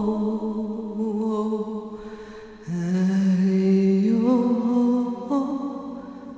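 A voice chanting without words in long, held notes with slow slides between pitches. One phrase fades out and a new one begins about two and a half seconds in.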